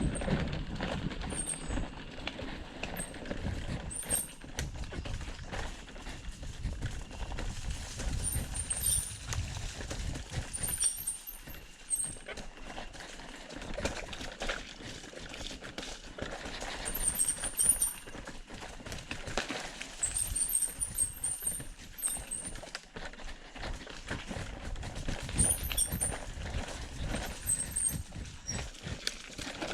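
Irregular knocks and rustling close to the microphone, with clusters of short, high-pitched chirps at intervals.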